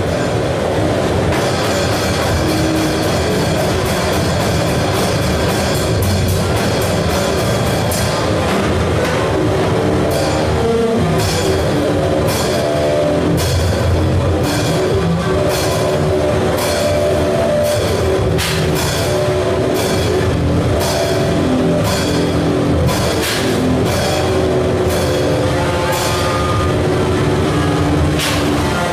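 Harsh noise music: a dense, loud wall of distorted noise with short pitched tones coming and going, cut through by sharp percussive hits that grow more frequent after about ten seconds.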